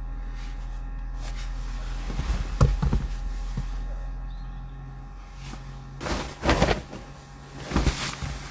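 Things being handled: a few knocks and clatter a couple of seconds in, then two short rustling, scraping bursts near the end, over a steady low hum.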